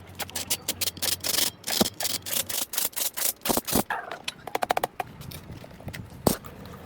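Rapid, irregular scraping and knocking strokes for about five seconds, ending in a quick rattle of clicks, then a single sharp knock about a second later.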